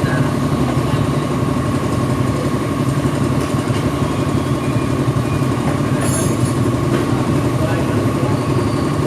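Motorcycle engine idling steadily, with a thin steady whine over it and a brief sharp click about six seconds in.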